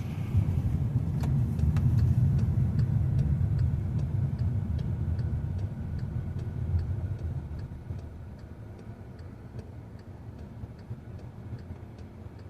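2014 Volkswagen Jetta's rebuilt 1.8-litre turbocharged four-cylinder running, heard from inside the cabin as the car drives, the engine and road rumble easing off about six seconds in. Over it the turn signal ticks about twice a second.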